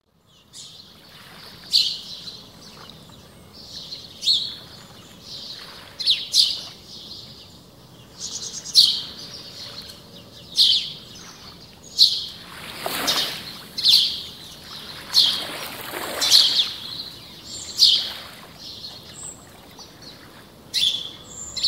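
Birds calling: short, sharp, high calls repeating every second or two, many dropping in pitch. Two longer, harsher calls come about two-thirds of the way through.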